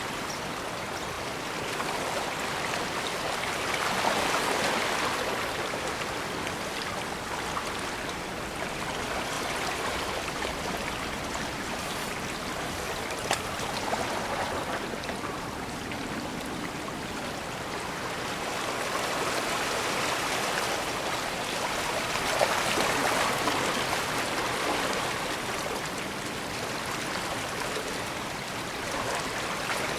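Small bay waves washing and lapping at the shore, a steady wash that swells every few seconds, with a couple of brief ticks.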